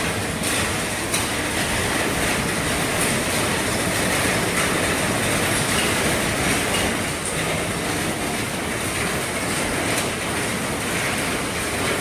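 Heavy rain falling steadily on an RV roof: a dense, even hiss with scattered drop taps.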